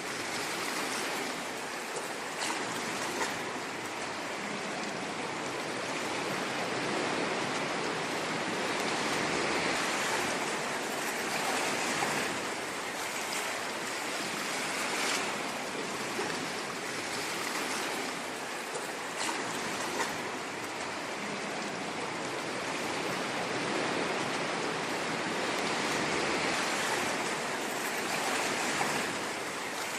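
Ocean surf washing on a shore: a continuous rush of water that swells and eases slowly every several seconds.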